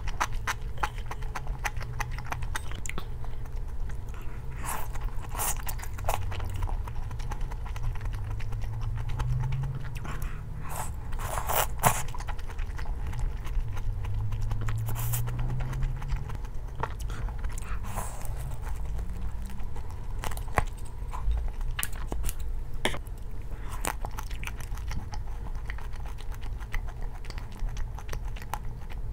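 A person chewing and biting food close to the microphone, with irregular crisp crunches and small clicks.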